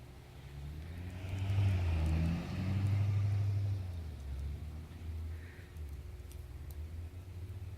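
Car engine running and revving up from about a second in, easing off again about four seconds in, then running on steadily.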